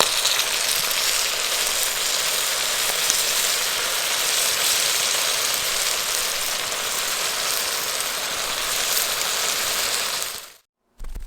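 Beef pepper rice sizzling in a hot pan, a steady hiss that cuts off abruptly near the end.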